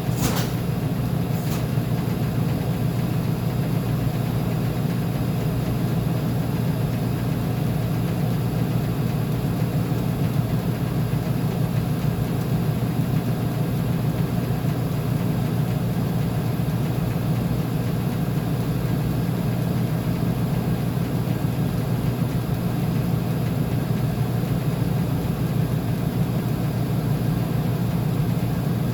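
Uni-Mac UniMat 35 commercial washing machine running with a steady low hum that does not change, with two brief clicks in the first couple of seconds.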